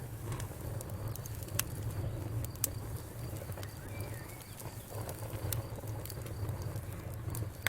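Wood fire crackling: a few sharp, sparse pops over a steady low rumble.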